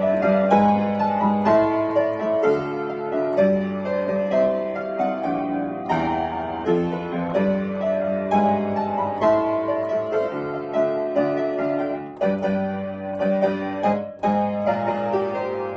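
Piano playing a melody over sustained chords at an easy, steady pace.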